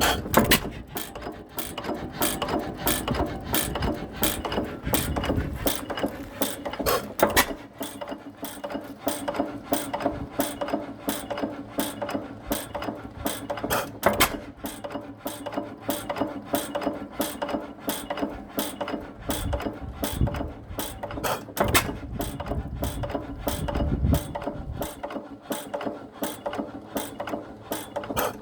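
1925 Herkules 8 hp hit-and-miss kerosene engine running, its mechanism clicking steadily about two to three times a second, with a heavier thud now and then as it fires.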